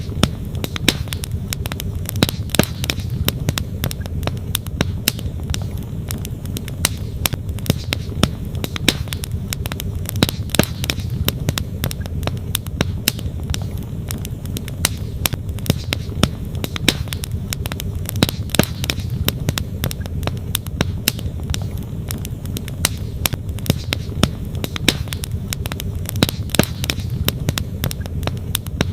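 Wood campfire crackling, with frequent sharp pops and snaps at irregular intervals, over the steady low rush of a flowing stream.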